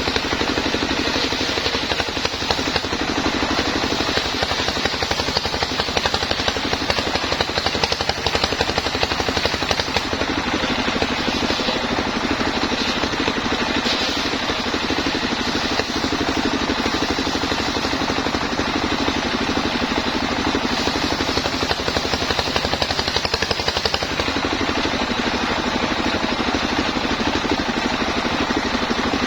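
Engine-driven homemade sawmill running steadily, its motor's fast even pulse under a continuous noisy din.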